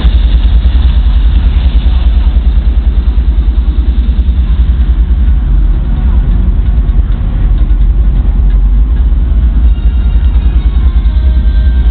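A heavy engine running steadily at idle, with a deep, fast, even pulsing.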